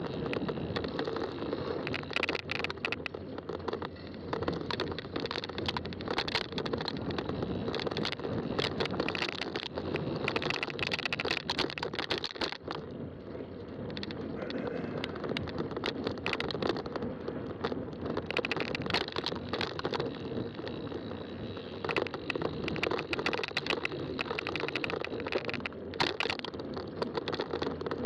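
Fat-tire bike being ridden on a trail: steady tyre and riding noise with frequent rattles and clicks.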